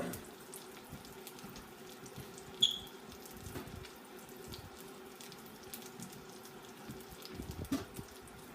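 Panko-crusted chicken breast frying in hot oil, a steady sizzle with light crackles. A single metallic clink about two and a half seconds in.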